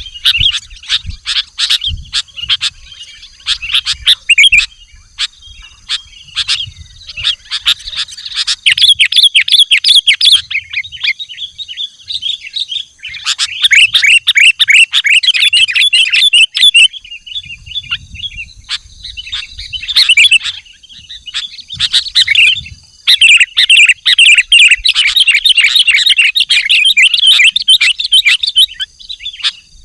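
Sooty-headed bulbul (kutilang) singing loudly in rapid, chattering bursts of several seconds with short pauses between.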